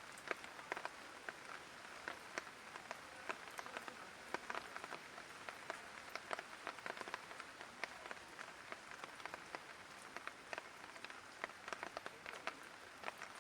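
Light rain falling: a steady soft hiss with frequent sharp taps of individual drops hitting surfaces.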